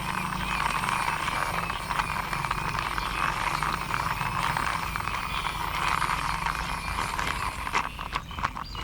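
Plastic toy vehicles being handled, with a steady rattling and clicking and a few sharper clicks near the end.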